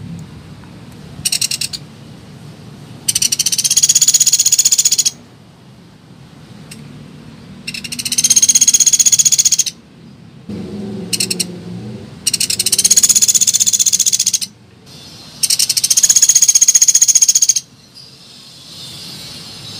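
Pelatuk beras woodpecker calling in rapid, high rattling trills, repeated: four long rattles of about two seconds each, with short bursts between them.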